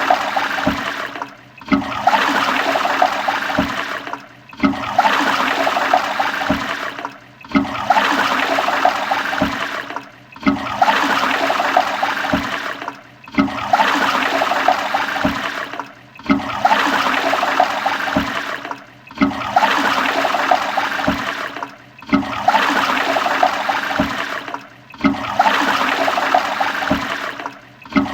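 Toilet flushing: a rush of water that starts abruptly and tails off, repeated identically about every three seconds with a brief gap between flushes.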